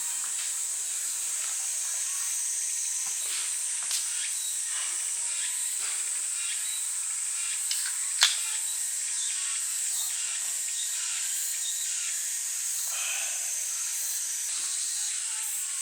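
A steady, high-pitched chorus of summer insects buzzing in a forest. Scattered light clicks and knocks of handling sit over it, with one sharper click about eight seconds in.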